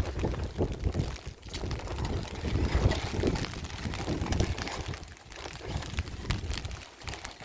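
Wind buffeting the microphone in gusts, a rumbling noise that swells and drops, in stormy weather.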